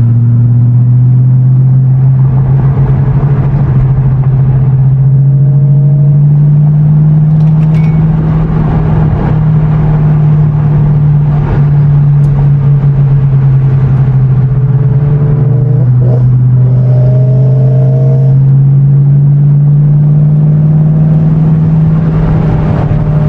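Car engine droning steadily under road noise, heard from inside the cabin while cruising; the engine note climbs slowly as the car gathers speed, drops a little about two-thirds of the way through, then rises again.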